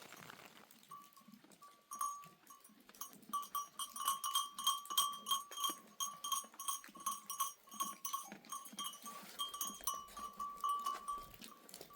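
Livestock bells worn by a goat and sheep flock, clanking and ringing over and over as the animals move. The ringing starts about a second in, is thickest midway and thins out near the end.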